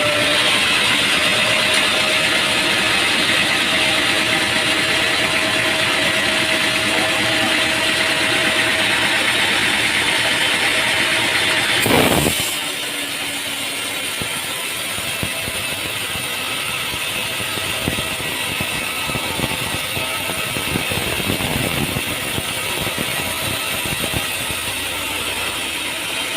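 Sawmill machinery running: a loud, steady, high-pitched noise lasts about twelve seconds and ends in a brief surge. Then a quieter steady running noise follows, with occasional knocks.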